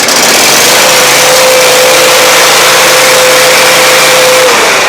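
Lawn mower's small gasoline engine running steadily just after starting, now that loose electrical wires causing an intermittent spark and a no-start have been tightened. A steady hum runs through the engine noise and drops out near the end.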